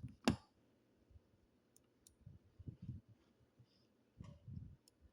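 A sharp click about a quarter of a second in, then a few faint clicks and soft low bumps.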